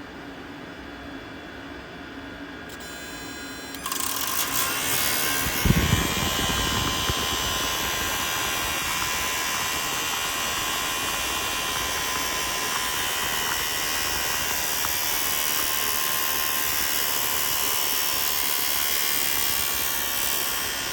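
A diesel heater's 12-volt blower fan switched on about four seconds in, spinning up and running steadily with an electric motor whine and a rush of air, with one sharp knock shortly after it starts.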